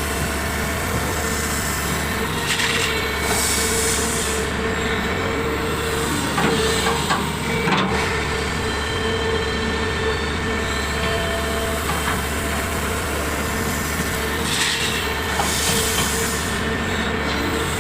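Large Komatsu excavator at work: its diesel engine and hydraulics run steadily with a constant whine. A few clanks and two short spells of hissing come on top.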